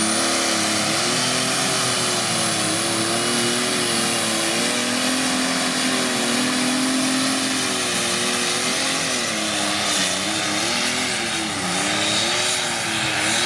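Massey Ferguson pulling tractor's engine running hard under load on a pull. Its pitch wavers throughout and sags twice late on as the engine bogs against the sled.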